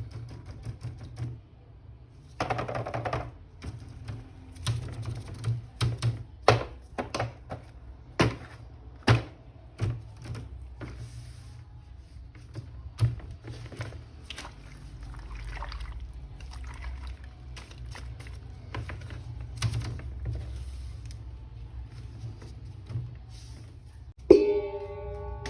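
Irregular clicks and knocks of plastic toy parts and packaging being handled, over quiet background music, with a short pitched tone near the end.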